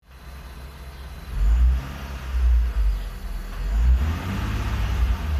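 Infiniti G35's 3.5-litre V6 engine running warm and blipped up in short surges, three or four times, carrying a whine. The whine stays the same with the clutch in or out and with both accessory belts off, so it is not coming from the belt-driven accessories or the clutch.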